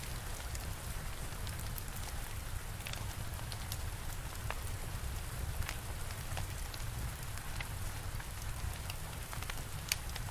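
Steady rain with a low rumble, and scattered sharp crackles and pops of a wood fire.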